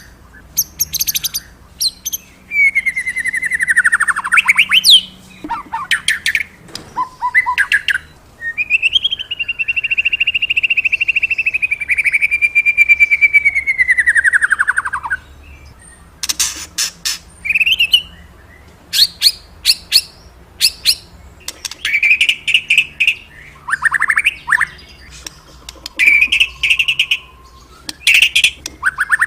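A murai (Copsychus songbird) singing loudly and continuously: a varied song of whistled notes, falling sweeps, fast trills and sharp chips, with one long warbled phrase in the middle.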